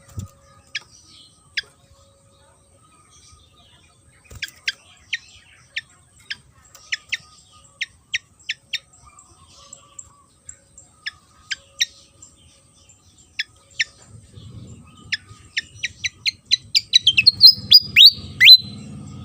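Sikatan kipas (fantail) calling: a string of sharp, downward-sweeping chip notes at irregular intervals. Near the end the notes come faster and louder in a rapid run. A low rumbling noise runs underneath in the last few seconds.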